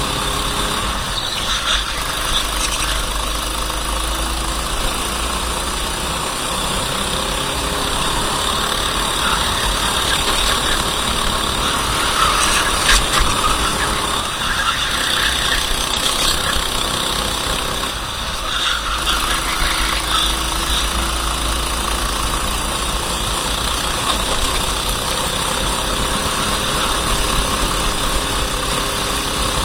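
Racing kart engine running under load, its pitch climbing slowly as the kart accelerates and falling off sharply about a second in and again near the middle as it slows for corners.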